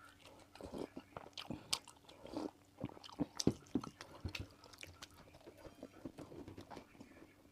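Close-up eating sounds of a person biting and chewing food: irregular wet mouth smacks and small crunches, loudest in the middle.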